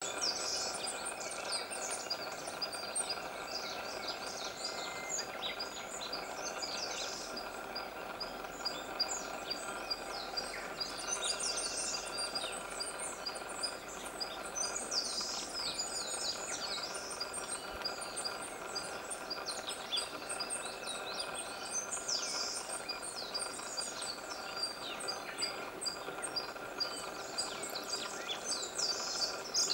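A chorus of small wild birds: continuous high-pitched chirps and short calls, with a brighter song phrase every few seconds, over a steady faint background hum.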